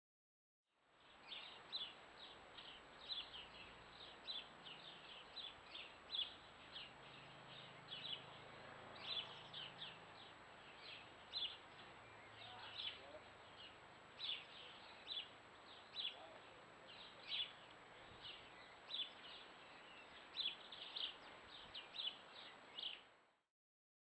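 Small garden birds chirping: short, high chirps repeated a few times a second in irregular clusters, over a steady background hiss.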